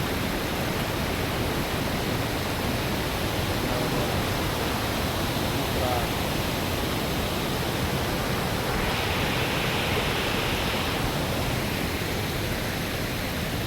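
Bousra waterfall's falling water, a steady, even rush of noise, with a slightly brighter hiss for a couple of seconds past the middle.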